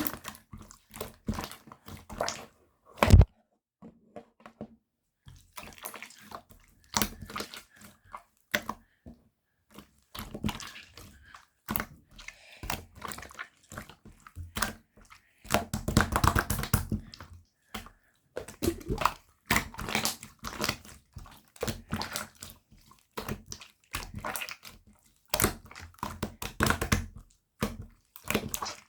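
Clear slime being squished and pressed by hand: an irregular run of wet clicks and small pops, thickening into a busier squelching stretch about halfway through and again later on.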